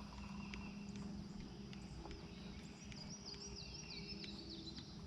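Faint riverside ambience with birds chirping; a quick, warbling bird song about three seconds in.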